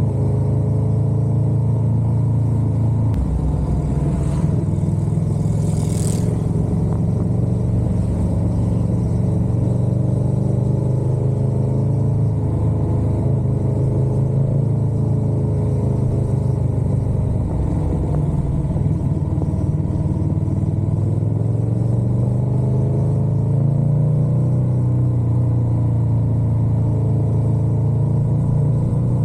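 Motorcycle engine running under way, its revs rising and falling with the throttle, and the note shifting about three seconds in. A brief hiss comes in around five seconds.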